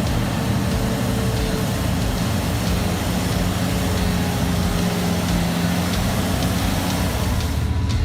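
Heavy machine's diesel engine running steadily, a loud, dense mechanical noise with a faint low hum.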